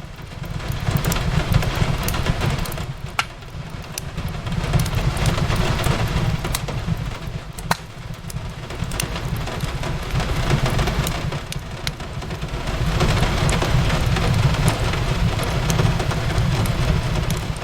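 Wood fire crackling, with scattered sharp pops, over a steady wash of rain on a window and a low rumble underneath; the whole swells and eases every few seconds.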